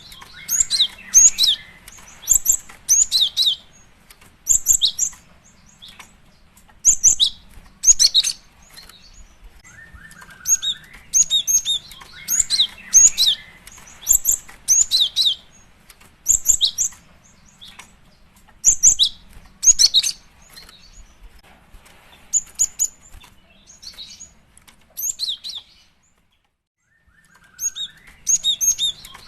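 Female cinereous tit (gelatik batu) calling: clusters of short, sharp, high chirps in bursts every second or two, with a short rising note about ten seconds in and again near the end. This is the female's call to a male, used as a lure.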